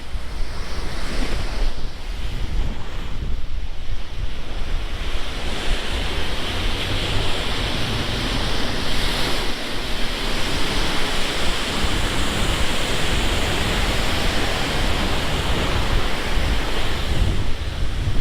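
Storm surf from the passing Tropical Storm Lee washing against a seawall, a continuous rush of water that swells louder through the middle, with wind buffeting the microphone in a steady low rumble.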